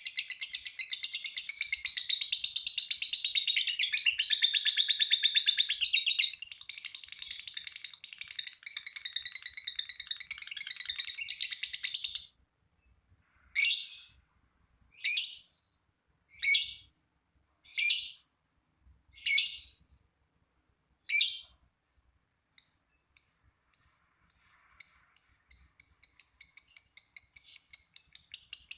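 Lovebird singing its 'ngekek' song: a long, rapid, high-pitched chattering trill for about twelve seconds, then a short break, then single chirps about a second and a half apart that speed up and run together into another unbroken trill near the end.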